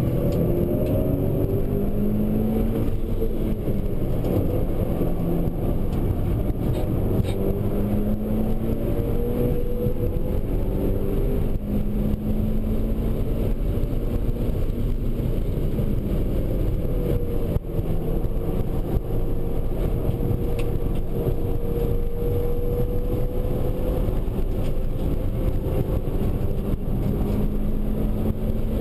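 Mitsubishi Lancer Evo V's turbocharged 2.0-litre four-cylinder engine heard from inside the cabin under hard acceleration. Its pitch climbs, drops back at each upshift and climbs again, over a steady rumble of road and wind noise.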